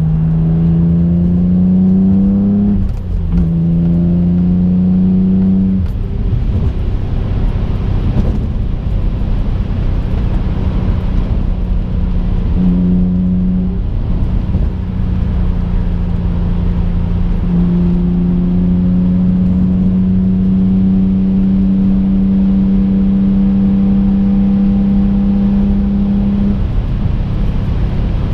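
The twin-turbocharged 3.5-litre V6 of a 2005 Infiniti G35 coupe, heard from inside the cabin. The revs climb, drop at a gearshift about three seconds in, then hold at a steady cruise with small rises and falls. Road rumble runs underneath.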